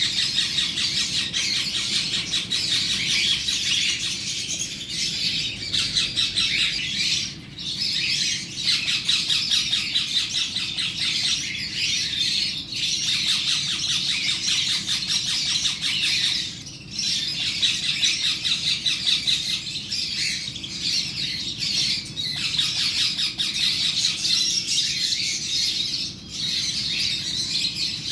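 Green parrot squawking in a near-unbroken run of rapid, harsh calls, with a few brief pauses.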